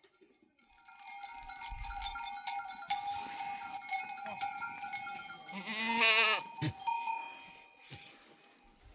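Many bells on a herd of goats clanking together as the animals move. One goat bleats, wavering, about six seconds in.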